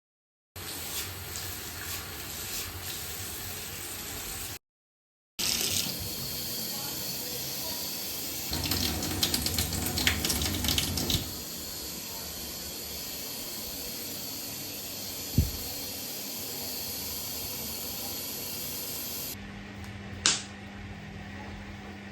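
Water running from a tap in a steady hiss, splashing more busily for a few seconds in the middle, with a couple of single sharp knocks. The sound breaks off and restarts at several cuts.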